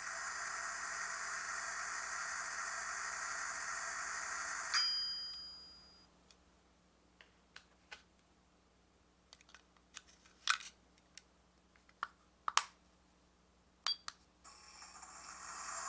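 Miniature toy microwave's tiny speaker playing its running hum effect, which ends with a ding about five seconds in and fades away. Then come scattered small plastic clicks, and about a second before the end the hum starts again.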